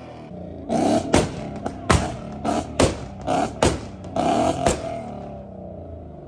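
A car engine revved in several quick blips, with sharp exhaust pops and cracks, about five of them, between the revs.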